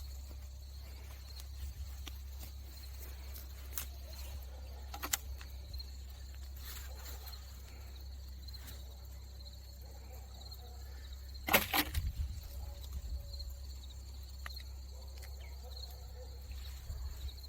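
Insects trilling steadily and high-pitched, with scattered light clicks and one louder sharp scraping knock about two-thirds of the way through.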